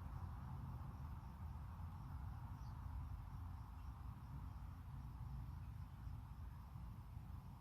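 Faint evening outdoor ambience: crickets chirping in a soft, steady, even rhythm over a low rumble.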